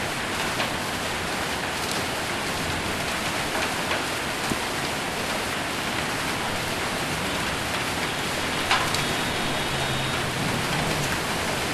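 Heavy rain drumming steadily on a metal roof, with scattered sharper ticks of drops or hailstones, one louder strike near the end.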